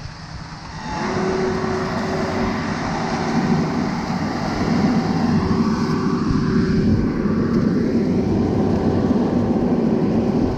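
Heavy truck engine speeding up about a second in, then running loud and steady.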